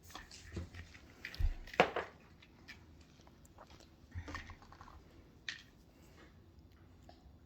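A baby eating finger food: scattered light taps and clicks with small chewing and smacking mouth sounds, the busiest stretch about a second to two seconds in.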